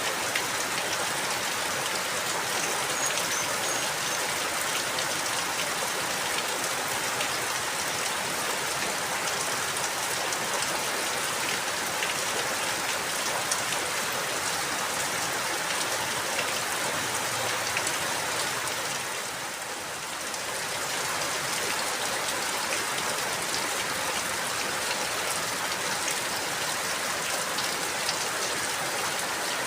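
Steady rain falling, with the patter of individual drops. The sound briefly drops in level and softens about two-thirds of the way through, then returns.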